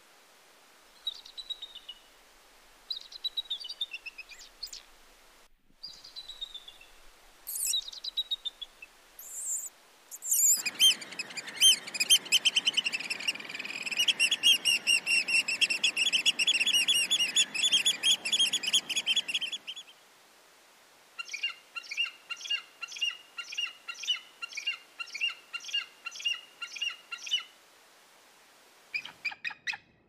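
Birds chirping. First come scattered short chirps and sweeping whistles, then a loud, dense trilling chorus for about nine seconds, then a run of evenly repeated chirps, about two a second.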